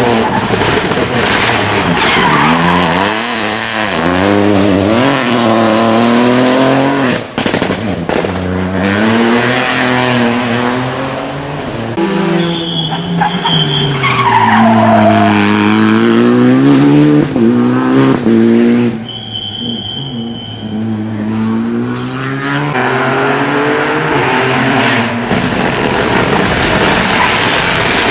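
Rally cars driven hard on a stage, engines revving up and down through gear changes, with tyre squeal. The sound dips briefly about seven seconds in and eases around two-thirds of the way through before building again.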